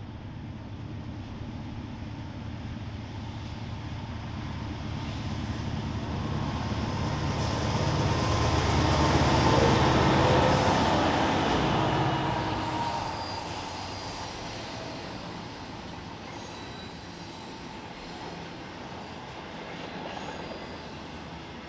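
Diesel-hauled train passing: it grows louder to a peak about halfway through, with a low engine hum under the rail noise, then fades as it moves away.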